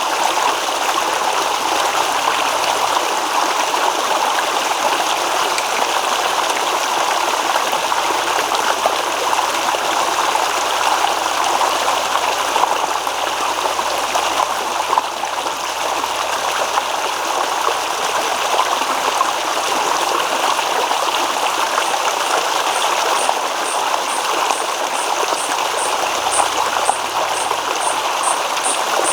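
Stream water babbling and rippling in a steady, unbroken rush. Over the last quarter a faint, high-pitched pulse repeats about twice a second above it.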